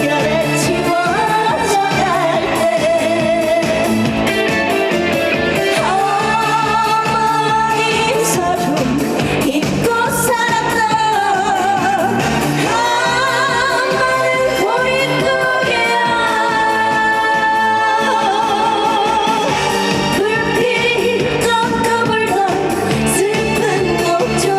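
A female trot singer singing a song with vibrato over amplified pop-style backing music with a steady beat.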